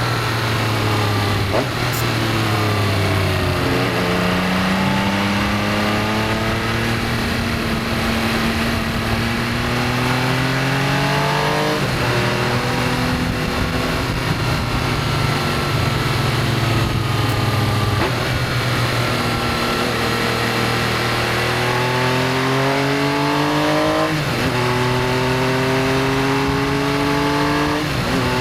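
Benelli Tornado Tre 900's inline three-cylinder engine at racing speed, its pitch climbing hard through the gears again and again with sudden drops at each gear change, and falling for a few seconds near the start as the bike slows.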